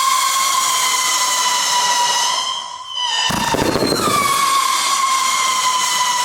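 Absolute Fireworks Hyena 36-shot barrage firing whistling shots. Each long, hissing whistle sinks slightly in pitch over about four seconds. A new shot goes off with a short thump about three seconds in, and its whistle takes over as the previous one dies away.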